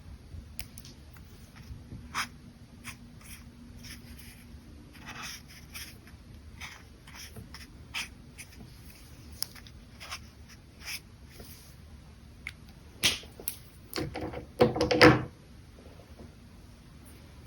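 Brush pen working on paper: scattered short strokes and light taps. About 13 s in come a few sharper knocks, then a louder rustle of handling lasting about half a second.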